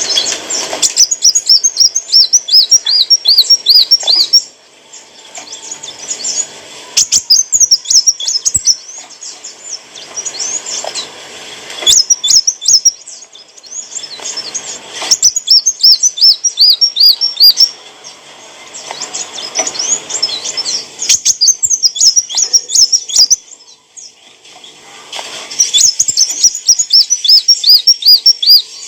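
Kolibri wulung sunbird singing: loud, high, rapid chattering phrases of quick looping notes, each burst lasting a few seconds, repeated over and over with short pauses between.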